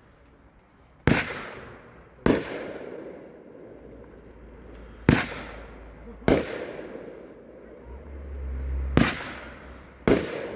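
Consumer firework cake, the green sugar skull, firing its shots: six sharp booms, each with a short echoing tail, coming in three pairs about a second apart.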